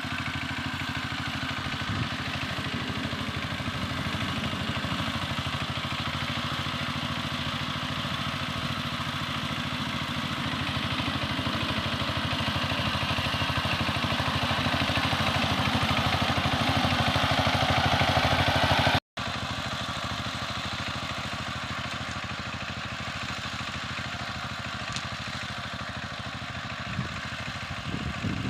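Kamco power tiller's single-cylinder diesel engine running steadily with a rapid, even firing beat. It grows gradually louder, cuts out abruptly about two-thirds of the way through, then runs on at a lower level.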